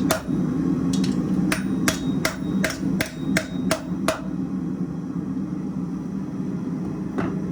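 Hammer blows on the anvil flattening a twisted hot-steel wall hook: a run of about ten sharp ringing strikes at nearly three a second, then a pause and one last strike near the end. A steady low hum runs underneath.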